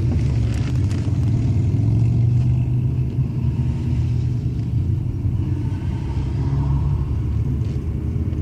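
Steady low rumble of a Triumph Stag's V8 engine and road noise, heard from inside the car while it is driving.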